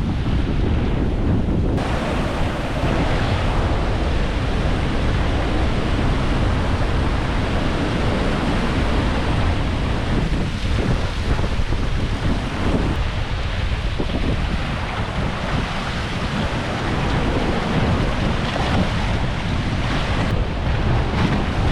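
Rough ocean surf surging and breaking in a continuous wash, with wind buffeting the microphone in a heavy low rumble.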